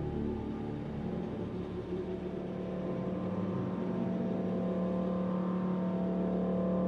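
A car driving along a highway, heard from its hood: a steady drone of engine and road noise.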